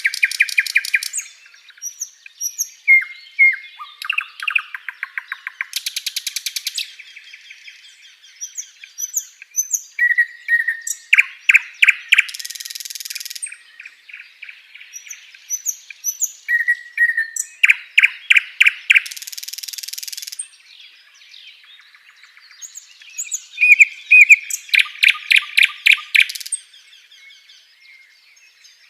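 A sikatan londo, a flycatcher, singing a varied song of high chirps, quick runs of repeated notes and dry buzzy rattles, in phrases broken by short pauses.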